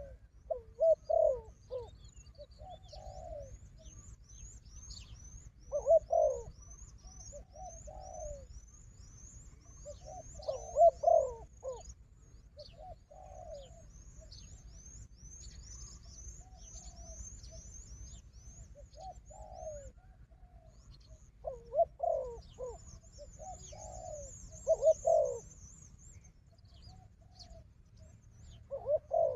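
Doves cooing in short repeated phrases, a few seconds apart, with a quieter gap in the middle and another near the end: the calls of a decoy dove luring a wild dove. Rapid high-pitched chirping runs on steadily behind them.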